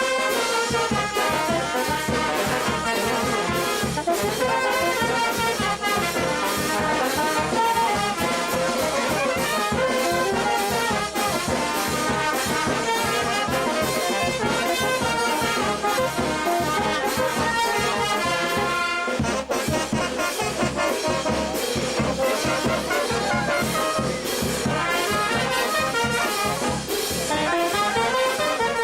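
Peruvian brass band playing: trumpets and trombones carry the melody over a steady drum beat.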